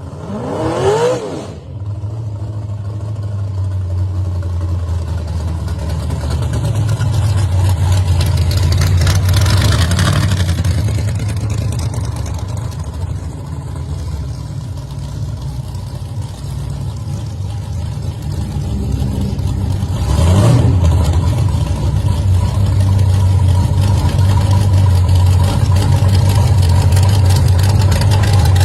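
A gasser hot rod's engine rumbling steadily at low revs, with a quick rev about a second in and louder surges of throttle about ten and twenty seconds in.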